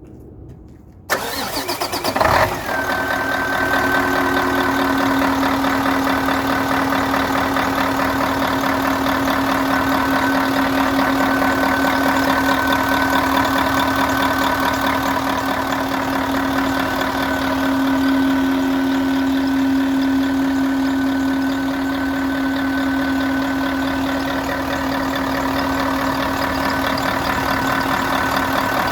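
Setra S 417 HDH coach's diesel engine cold-started: about a second in the starter cranks briefly, and the engine catches about a second and a half later. It then settles into a steady idle with a thin high whine over the running.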